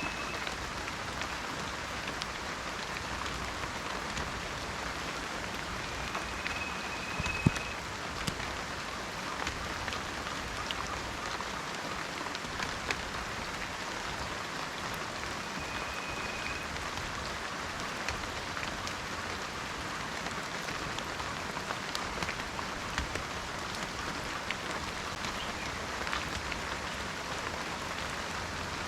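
Steady rain falling in a forest, an even hiss with scattered louder drop impacts; the sharpest drop lands about seven seconds in. A few faint, short, high whistles sound three times over the rain.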